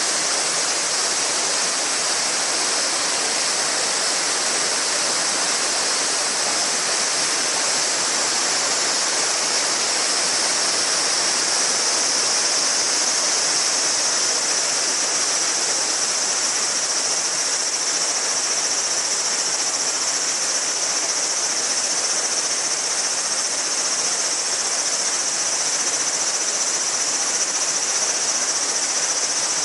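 A shallow mountain river babbling steadily over stones, with a chorus of cicadas droning high above it that grows stronger about halfway through.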